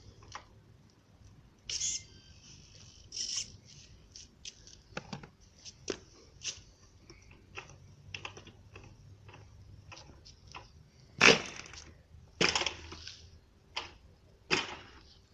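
Scattered, irregular clicks and knocks of hands handling equipment, with a few louder knocks near the end; no engine is running.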